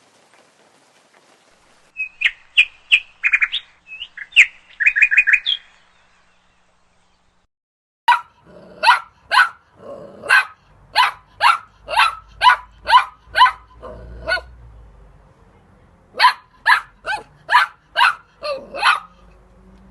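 Short high chirping calls for a few seconds. After a pause, an animal gives a long run of short, sharp barks, about two a second, then stops briefly and gives a second run.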